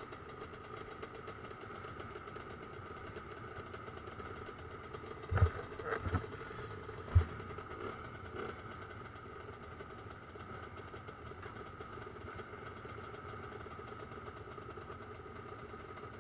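Motocross motorcycle engines running steadily at an even drone. A few sharp thumps come about five to seven seconds in.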